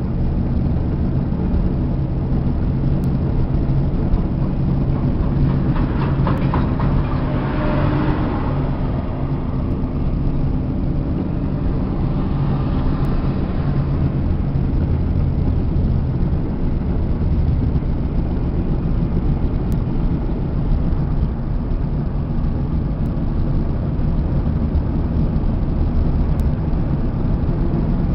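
Motorcycle engines running steadily, with a brief louder, brighter passage about six to nine seconds in.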